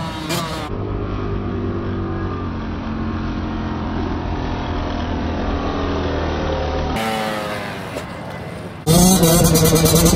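Yamaha YZ125 two-stroke dirt bike engine running, in several cut-together clips: a steady drone, then a stretch where the pitch rises and falls as it is revved. About nine seconds in it cuts suddenly to a louder, closer engine sound.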